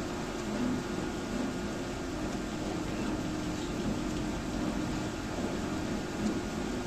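Egg incubator's fan running steadily, a constant hum and hiss with no distinct events.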